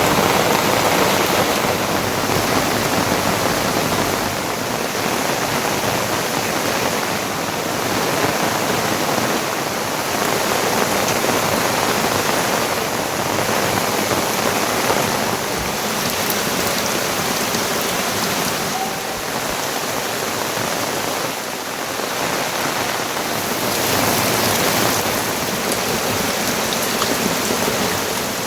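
Heavy monsoon rain falling, a steady loud hiss that swells and eases slightly.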